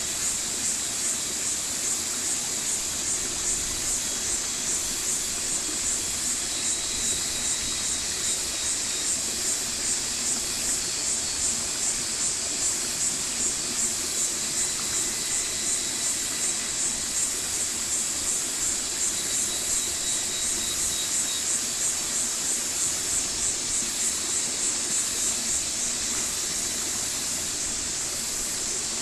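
Stream water flowing steadily, with a high-pitched pulsing sound over it at about two pulses a second that eases off near the end.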